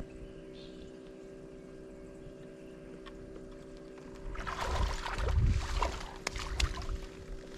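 Boat on the water: a steady hum, then from about four and a half seconds in, water sloshing and splashing with a few knocks.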